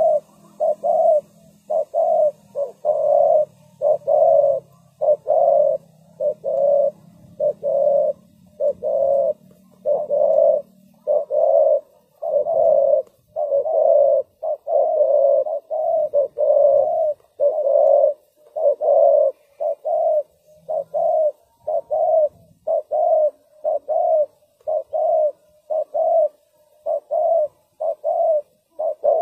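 Spotted dove cooing over and over in a steady run of short, low coos: a decoy dove calling to lure wild doves.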